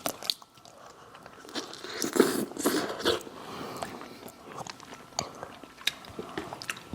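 Close-up eating sounds: a person biting into and chewing crunchy food, with scattered wet clicks and a louder run of crisp crunches about two to three seconds in.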